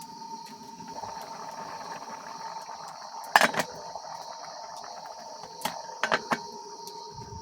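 A steady, high-pitched chorus of insects at dusk, with a steady mid-pitched drone beneath it. A sharp click or snap cuts through about three and a half seconds in, and a quick cluster of smaller clicks comes near the end.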